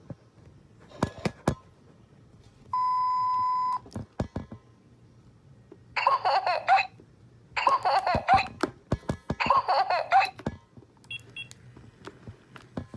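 Baby Alive Snackin Noodles doll's electronic speaker in test mode: a steady beep lasting about a second, then three short warbling sound clips a second or so apart. Sharp clicks come between them.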